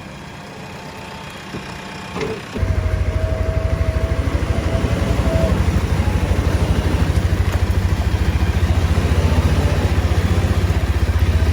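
JCB 3DX backhoe loader's diesel engine, close and loud: about two and a half seconds in it comes in suddenly with a steady, fast low throb, and a brief whine rides over it for a few seconds.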